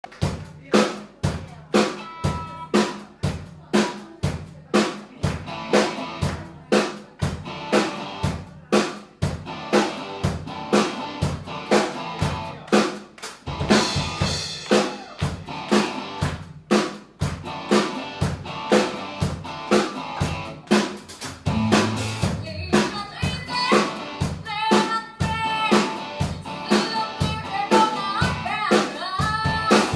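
Live band playing an intro driven by a drum kit, with kick and snare keeping a steady beat. A melody line comes in over the drums about two-thirds of the way through.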